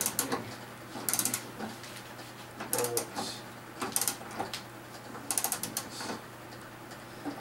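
Hand socket ratchet clicking in short runs of quick strokes, with pauses between them, as bolts are backed out of a Chevrolet Trailblazer during a teardown.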